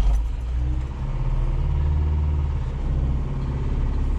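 Cold truck engine running steadily with a low rumble, on choke on a freezing morning.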